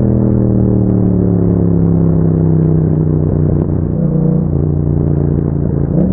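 Yamaha MT-07's 689 cc parallel-twin engine through an Akrapovic exhaust, its note falling steadily for about three seconds as the revs drop, then holding, with a brief rise in revs near the end.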